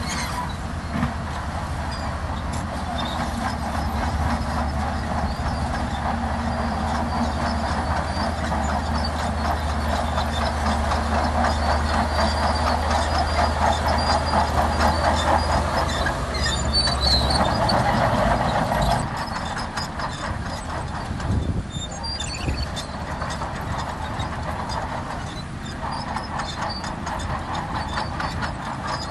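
Shantui DH17C2 crawler bulldozer working: its engine runs steadily under load while the steel tracks clank and squeal. The sound builds to its loudest about two-thirds of the way through, then drops to a lower, steadier level.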